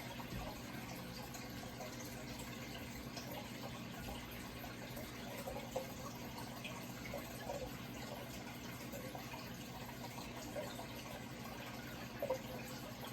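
Running water trickling and bubbling over a steady low hum, with small scattered bubbly pops, a couple of them a little louder about six seconds in and near the end.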